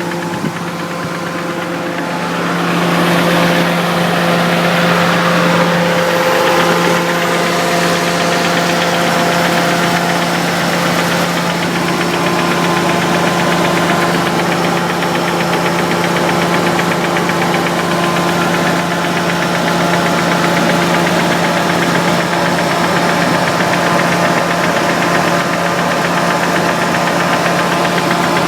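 Nissan 300ZX V6 engine running steadily with a constant rapid knock, a little louder from about three seconds in. The knock came on after a hard motorway run, and the owner fears a failing oil pump because the oil pressure reads erratically.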